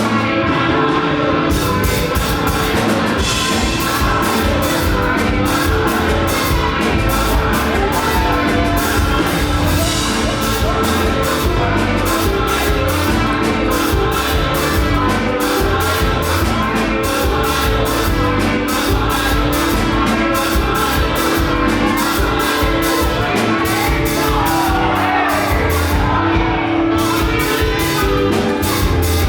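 Live up-tempo gospel praise music: a band playing a fast, steady drum beat under a sustained bass note, with voices singing over it.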